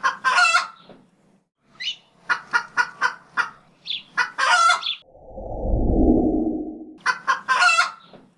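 A chicken giving a run of short calls. About five seconds in, a low noise swells and fades over roughly two seconds, then the short calls resume.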